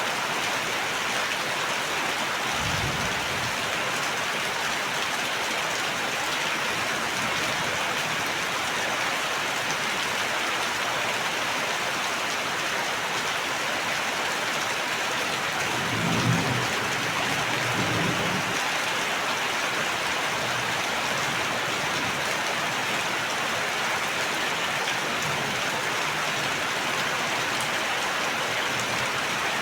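Steady heavy rain falling, an even hiss of drops throughout. Brief low rumbles come in about three seconds in and again a little past halfway.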